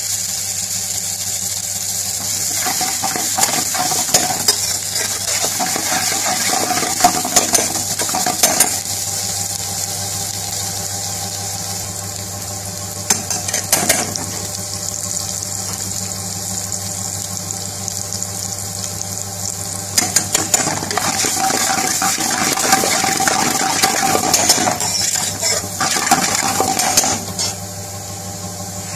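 Onions and green chillies frying in oil in a wok, with a steady sizzle, while a long metal spoon stirs and scrapes against the pan. The spoon's clinks and scrapes come in three spells, the longest near the end.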